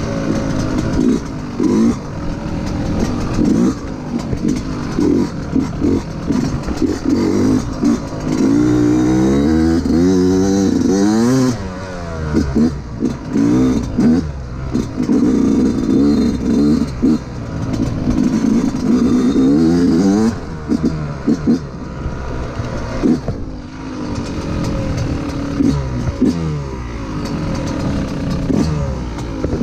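Yamaha YZ125 two-stroke single-cylinder dirt bike engine under way, the revs repeatedly climbing and falling with throttle and gear changes, with a few brief let-offs.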